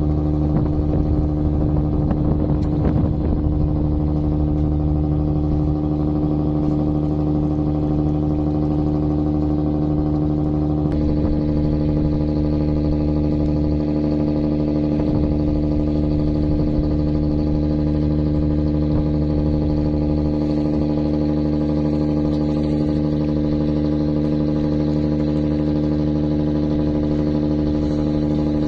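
A squid-fishing boat's engine running steadily, a constant droning hum whose tone shifts slightly about eleven seconds in.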